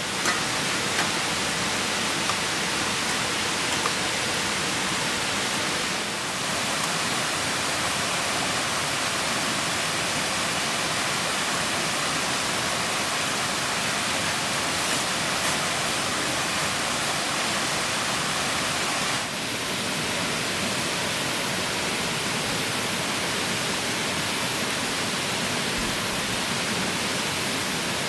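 Water of a clear stream rushing steadily, with a few small clicks in the first few seconds.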